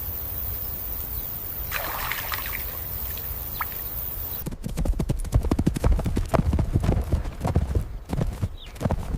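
Steady outdoor background hiss, then about halfway through, a horse's hooves knocking rapidly and irregularly on hard ground, several knocks a second.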